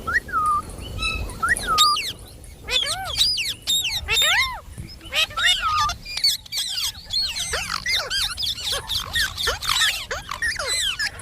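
Pet parrots chattering: a dense run of rapid, high, overlapping chirps and squeaky calls, after a short held whistled note at the start.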